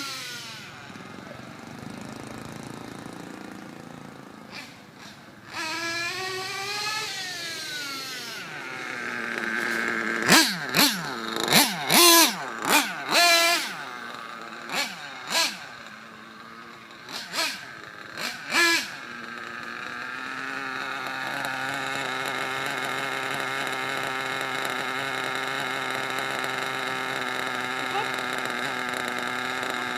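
Trackstar 21 nitro RC engine revving in a quick series of short, sharp blips of the throttle, then running on at a steady high pitch for the last ten seconds.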